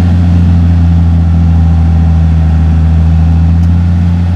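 John Deere 6068 six-cylinder diesel engine of a Fabtek 153 harvester running steadily, a deep even drone, while it warms up to test a newly fitted thermostat.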